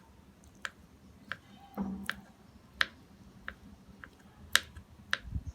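Kitchen knife chopping soft boiled egg white, the blade tapping the cutting board in sharp single knocks about every two-thirds of a second.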